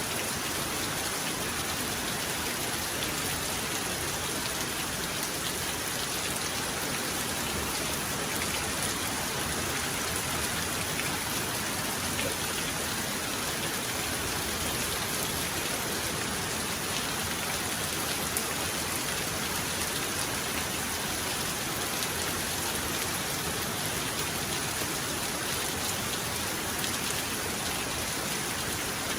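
Steady heavy rain falling, an even unbroken hiss of drops with no thunder heard.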